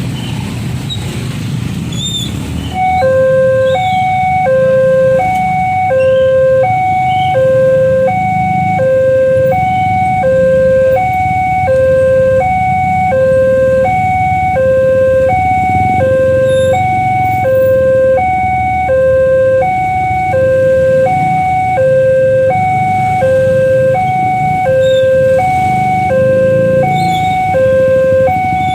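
Nippon Signal electronic level-crossing alarm starting about three seconds in, alternating between two pitches at roughly two strikes a second, over a low rumble of road traffic. The alarm is the warning that a train is approaching and the crossing barriers are closing.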